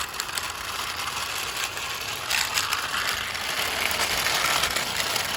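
Toy CNG auto rickshaw's wheels and gearing whirring with a dense ratcheting as the toy is rolled, growing louder about two seconds in.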